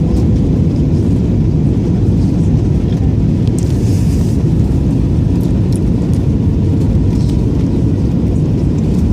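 Steady low rumble inside an Airbus A320 cabin in flight: engine and airflow noise, with a faint steady hum over it.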